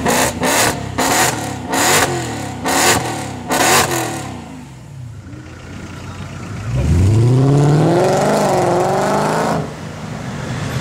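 Supercar engine revved in a quick series of short, sharp blips, then after a brief lull accelerating hard with a rising pitch that cuts off suddenly near the end.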